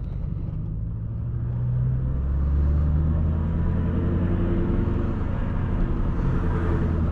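2003 Mustang SVT Cobra's supercharged 4.6-litre V8 running at low speed while the car is pulling in. About two seconds in, its note drops lower and grows a little louder, then holds steady.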